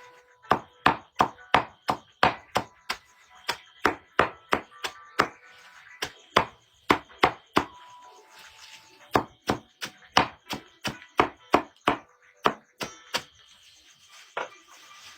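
Rapid chopping: sharp strikes about three a second, in runs broken by short pauses.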